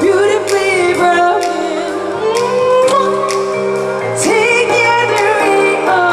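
Female pop singer singing live over a band accompaniment, holding long notes with vibrato above a steady beat.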